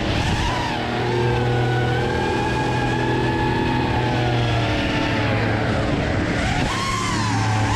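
Dirt bike engine revving, its pitch rising and falling as the throttle is worked.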